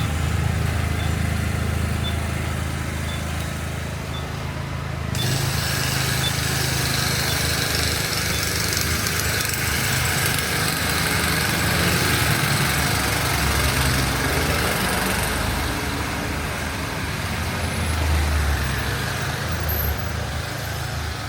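Street traffic: the steady low engine rumble of motor vehicles, with a hiss of passing traffic that comes in about five seconds in. A faint high tick repeats about once a second at the start.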